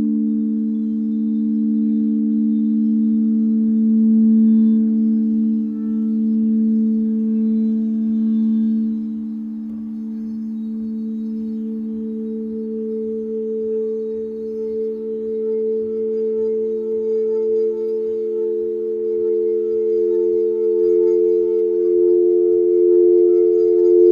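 Singing bowls ringing in long, sustained, overlapping tones. About halfway through, a further note swells in and pulses gently against the others.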